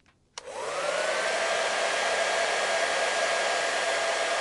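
Hair dryer switched on with a click about a third of a second in, its motor rising in pitch as it spins up, then running steadily with a rush of blowing air.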